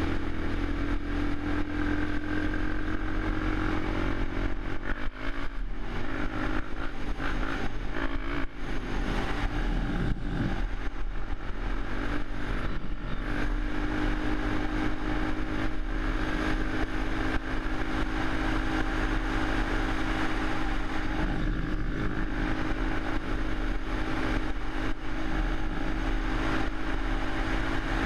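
Suzuki LTZ400 quad's single-cylinder four-stroke engine running, with an uneven, changing stretch from about 4 to 13 seconds in before it settles back to a steady pitch.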